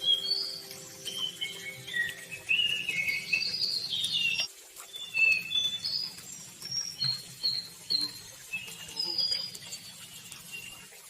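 A chorus of several songbirds singing, with many short, high chirps and whistles overlapping; it thins out near the end. Under it runs a low, steady rush of flowing river water.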